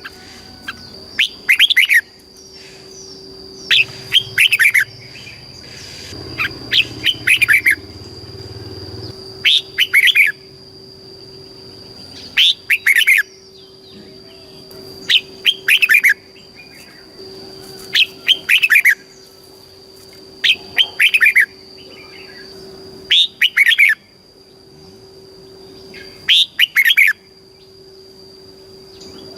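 Red-whiskered bulbul singing short, bright phrases of a few quick notes each, one phrase about every two to three seconds, over a faint steady high-pitched tone.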